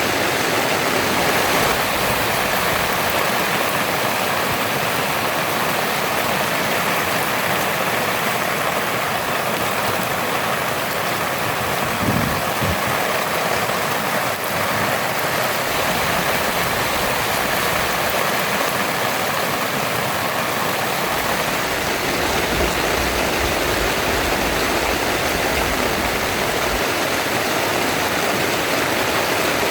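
Heavy rain falling steadily in a dense, unbroken hiss, with a brief low thump about twelve seconds in.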